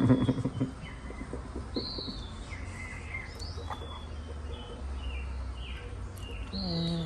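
Small birds chirping and whistling off and on over a steady low hum. A brief, louder low-pitched sound comes right at the start, and another short pitched sound near the end.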